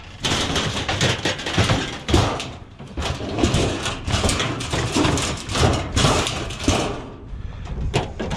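Scrap items being handled and shifted: dense clattering, knocking and scraping that starts suddenly and eases a little near the end.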